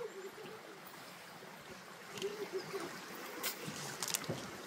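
Gorge stream flowing steadily, with a few sharp clicks late on.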